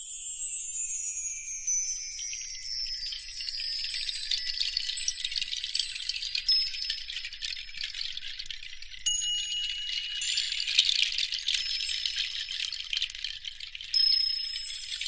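Bright, high-pitched tinkling like chimes, continuous, with slowly falling sweeps.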